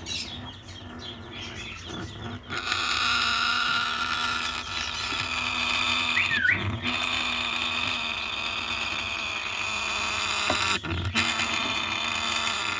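Timneh grey parrots in a nest box making a steady hissing, rasping noise, starting about two and a half seconds in, with one short chirp midway.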